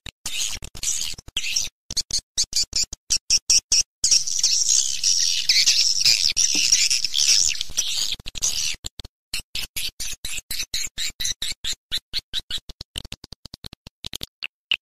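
Swiftlet calling sound: a recorded chorus of edible-nest swiftlet chirps and twitters, the lure played to draw swiftlets into a swiftlet house. Rapid trains of sharp, high chirps, thickening into continuous twittering from about four seconds in to about nine, then breaking back into quick separate chirps.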